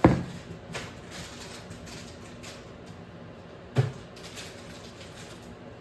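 Two sharp knocks of kitchen items being handled, one right at the start and a smaller one about four seconds in, over a steady low background noise.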